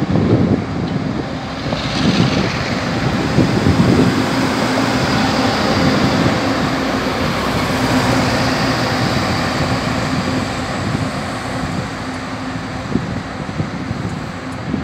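Train pulling out of a station: a steady rumble of wheels on rails under a low, even engine drone, with a brief falling whine about two seconds in.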